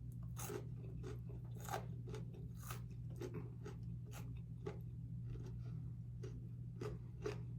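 A person chewing food close to the microphone, with irregular crisp crunches several times a second, over a steady low hum.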